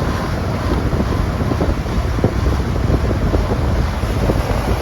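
Outdoor air-conditioner condenser unit running, its fan's warm discharge air buffeting the microphone as a heavy, steady rush, with a few light knocks.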